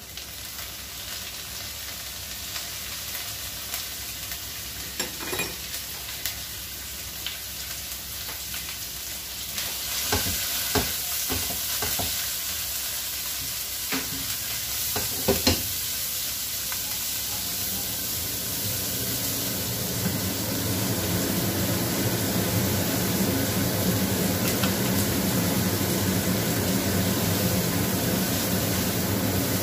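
Dried anchovies frying in a little oil in a wok: a steady sizzle that grows louder about a third of the way in, with a spatula stirring and scraping and a few sharp knocks against the pan. A low steady hum joins about two-thirds of the way through.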